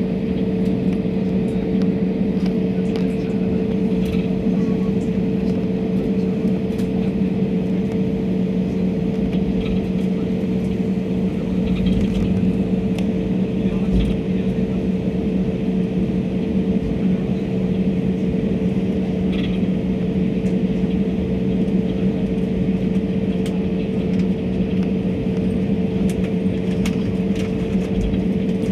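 Steady cabin drone of a jet airliner in flight: engine and airflow noise carrying two constant hums, one low and one higher, with a few faint clicks.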